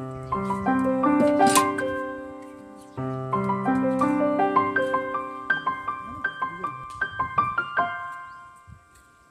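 Piano music: a melody of separate struck notes that ring on, with a fresh phrase about three seconds in, fading away near the end.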